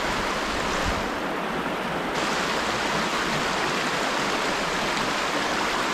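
Steady rush of water flowing over and below a creek spillway, the creek running high.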